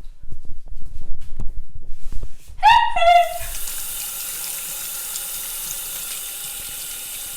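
A kitchen tap is turned on and water runs steadily into a sink for hands to be washed. The running water starts about three seconds in, after a few low knocks and a brief pitched sound.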